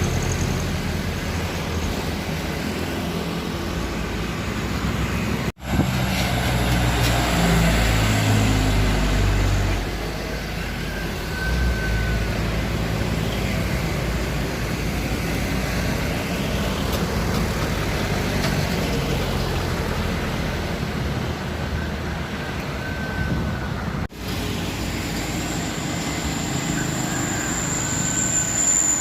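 Heavy truck engines labouring up a steep incline, with passing road traffic. The low engine note is strongest a few seconds in, and the sound cuts out abruptly twice.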